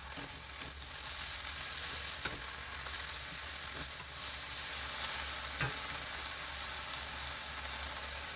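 Chwinamul (wild aster greens) sizzling steadily as they are stir-fried in a pan, with a couple of sharp knocks about two and five and a half seconds in.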